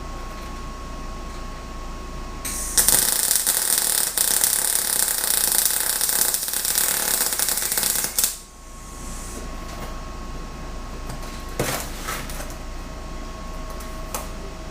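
Wire-feed (MIG) welder laying a bead for about five seconds, a steady crackling hiss that starts and stops abruptly, then a single short click.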